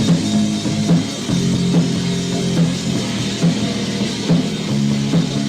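Punk band's instrumental passage on a lo-fi four-track demo recording: drum kit with bass and guitar repeating a low riff, with drum hits a little under one a second.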